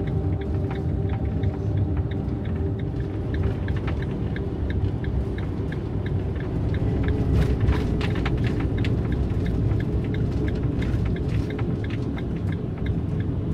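Steady low road rumble of a Fiat Ducato diesel van driving on a snow-covered road, with a faint regular ticking about two to three times a second.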